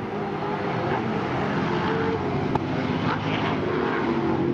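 Engines of several 1970s Group NC race cars, a mix of Mustangs, Toranas, Falcons and similar, running hard at high revs as the field passes, the pitch of the notes shifting as they go by.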